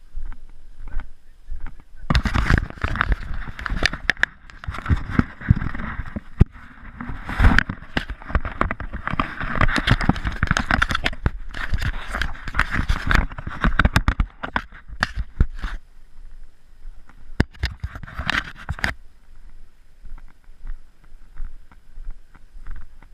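Close rustling and scraping with many irregular crackles and knocks, starting about two seconds in and dying down a few seconds before the end.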